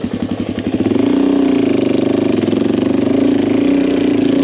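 Adventure motorcycle engine chugging with even, rapid firing pulses at low revs, then opening up about a second in to a louder, steady higher-revving note that holds on.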